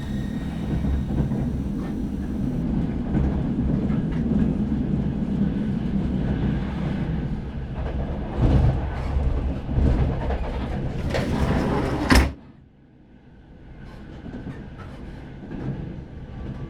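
Train running, a steady low rumble that swells twice into a louder rushing hiss. It cuts off suddenly about three-quarters of the way through, leaving only a faint quiet background.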